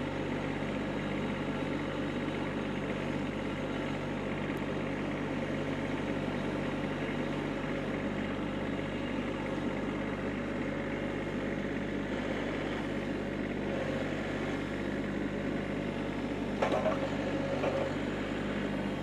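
Kubota tractor's diesel engine running steadily, with a short knock near the end.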